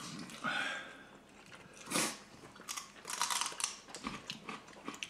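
People chewing and biting into chicken wings, in a few short noisy bursts, the loudest about two seconds in.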